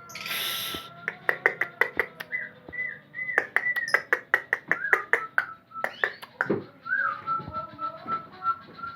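White-rumped shama (murai batu) singing: rapid sharp clicking notes mixed with whistled notes and short slurred phrases, ending in a run of evenly repeated whistles. A short hiss comes just after the start.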